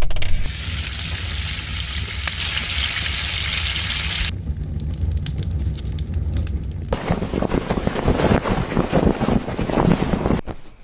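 Food sizzling and frying over a campfire, a steady hiss, broken by sharp cuts: a low rumble of wind in the middle, then a denser crackling sizzle.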